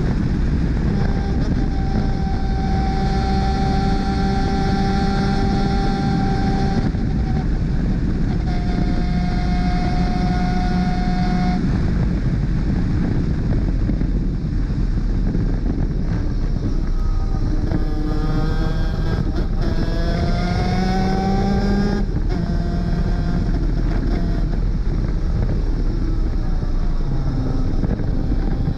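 Superkart 250's two-stroke racing engine running at high revs. Its pitch holds steady for long stretches, then climbs in several rises about two-thirds of the way through, over a steady low rumble.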